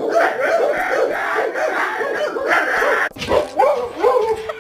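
Dog yipping and whining in a rapid, unbroken string of short high calls, which breaks off suddenly about three seconds in before the yips start again.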